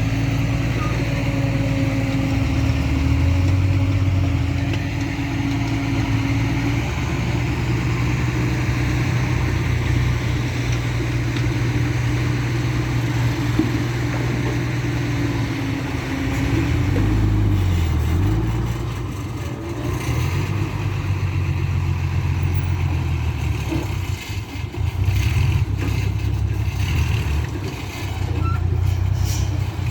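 Mitsubishi Fuso 220PS dump truck's diesel engine running hard under a full load, its pitch holding steady, then dropping and climbing again about two-thirds of the way through. Several short knocks sound in the last few seconds.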